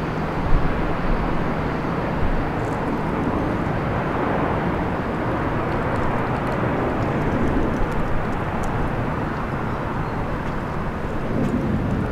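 Jet airliner engines heard at an airport: a steady rushing roar that swells slightly in the middle.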